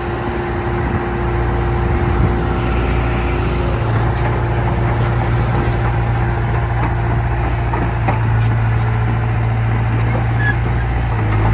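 Heavy diesel earthmoving machinery's engine running steadily with a low, even hum.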